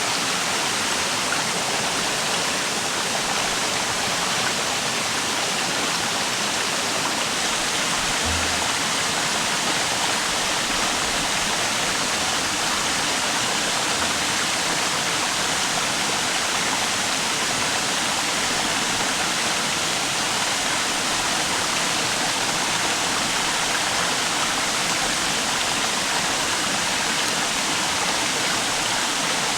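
River water rushing steadily over rocks, a constant even noise with no break.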